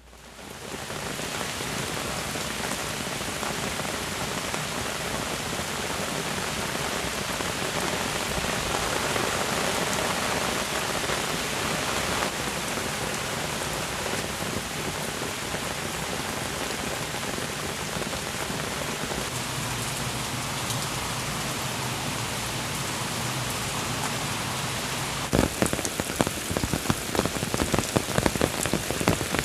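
Heavy rain pouring down steadily, fading in at the start. Near the end, loud separate drops start striking a nearby surface as irregular sharp taps over the downpour.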